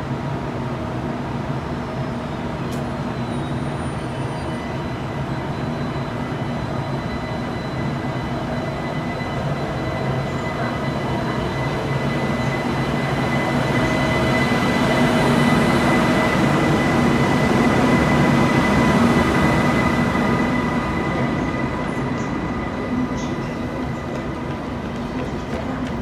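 Train passing by, its rumble swelling to a peak about two-thirds of the way through and then fading, with a steady high whine above it.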